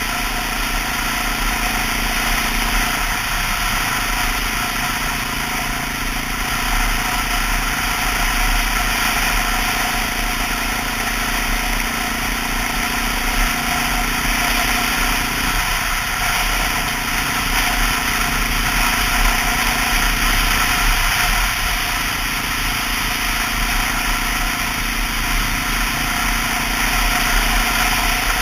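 Honda XR650L's single-cylinder four-stroke engine running while the bike is ridden, with wind noise. The engine note changes pitch about three seconds in, again around the middle, and once more a few seconds later.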